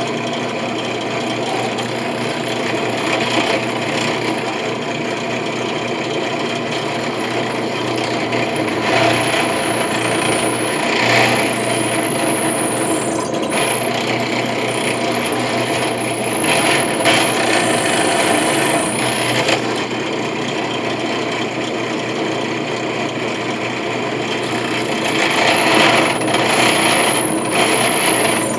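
Electric drill running continuously under load, its bit grinding into a brass coin, with a wavering high-pitched squeal that comes and goes.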